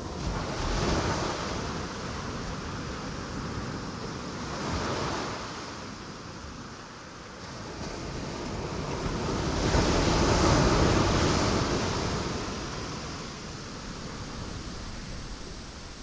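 Ocean waves breaking on rocks: a steady wash of surf that swells with a wave about a second in, another around five seconds in, and the largest around ten seconds in before easing off.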